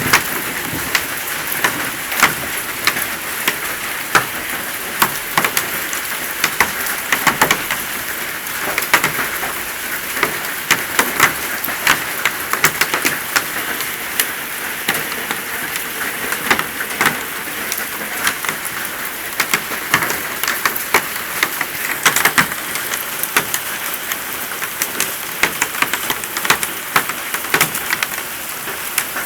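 Hail falling hard: a dense, steady clatter of hailstones striking, with many sharp clicks and knocks over a constant rushing hiss.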